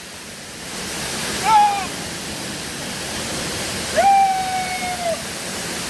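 Waterfall rushing steadily. A person's voice calls out briefly about one and a half seconds in, then again near four seconds in, held for about a second with a slightly falling pitch.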